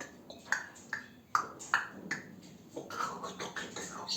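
African grey parrot vocalizing to itself: a string of sharp clicks and short chirps, then mumbled, speech-like chatter from about three seconds in.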